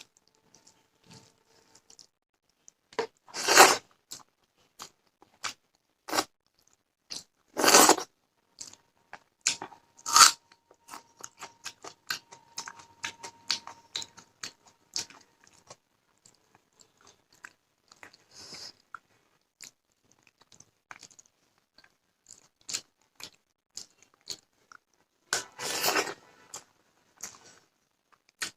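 Close-miked eating: a few loud crunching bites, about four over the stretch, with soft chewing and mouth clicks between them.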